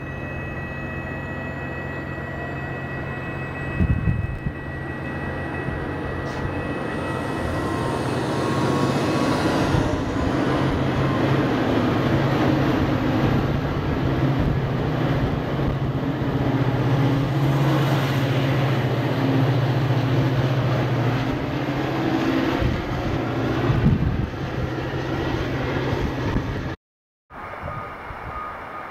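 MBTA commuter rail train going by, its diesel locomotive's engine running with a steady low drone over the rumble of the cars. The sound is loudest as the locomotive passes, then cuts out briefly near the end.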